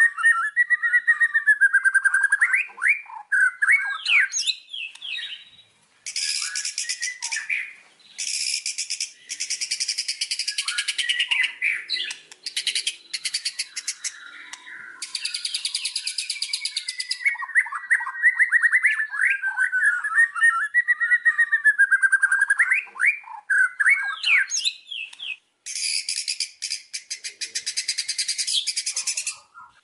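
White-rumped shama (murai batu) singing: varied whistled, warbling phrases alternate with several long passages of very rapid, rattling chatter.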